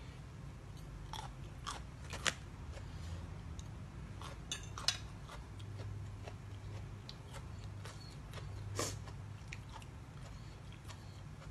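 A person chewing and biting crunchy food close to the microphone, with irregular crunches, the loudest about two, five and nine seconds in, over a steady low hum.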